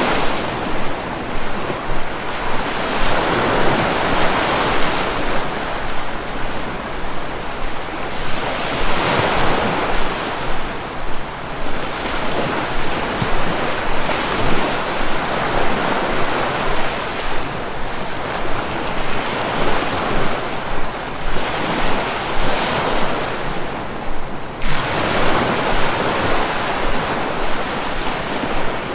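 Sea waves washing in a continuous hiss that swells and eases every few seconds.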